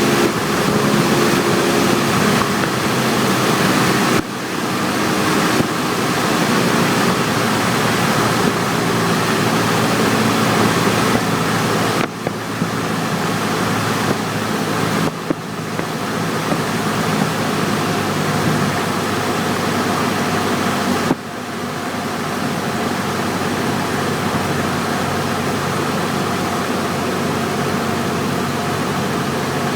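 Cessna 172's engine and propeller running steadily, heard from inside the cockpit along with rushing air. The level drops in steps, most clearly about four seconds in and again about twenty-one seconds in.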